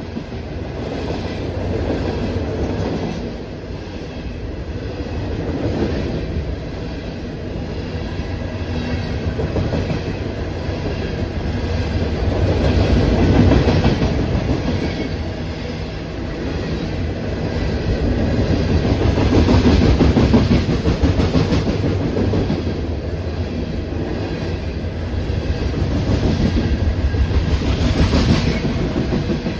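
A train rolling past close by, its wheels clattering over the rails in a continuous rumble that rises and falls in loudness.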